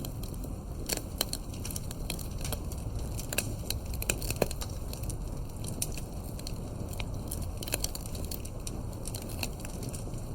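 Wood fire crackling steadily, with frequent sharp irregular pops over a low, even rumble of the burning.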